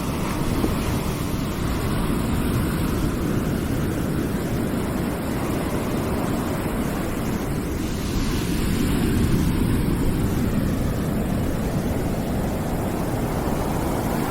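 Steady, low rushing noise played as a calming background, swelling slightly about nine seconds in.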